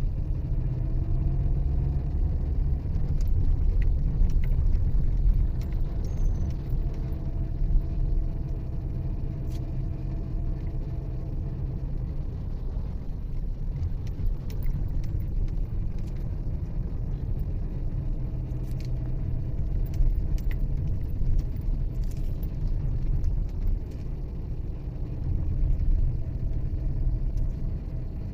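Vehicle under way: a steady low rumble of engine and road noise, with a faint engine hum that drops away partway through and comes back.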